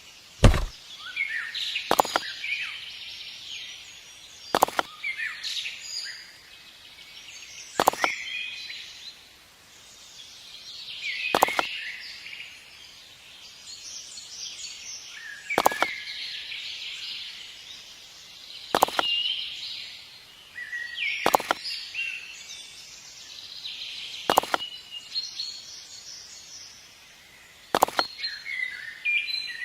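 Wild birds chirping and singing continuously, with a sharp click about every three seconds, about ten in all.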